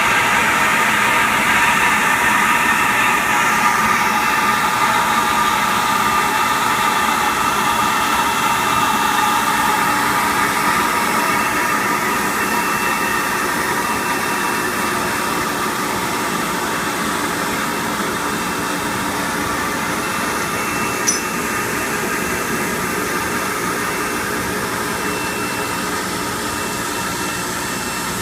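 Industrial parts washer running: a steady mechanical rushing noise with a hum of tones in it, easing off slightly over time. One short sharp click comes late on.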